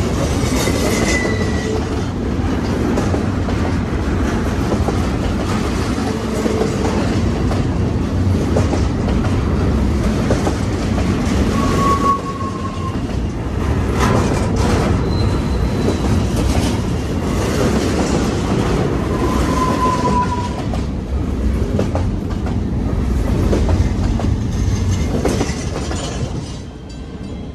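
Double-stack intermodal freight cars rolling past on jointed track: a steady rumble of steel wheels on rail with clicks and clatter, and a few brief wheel squeals. The sound drops near the end as the last car goes by.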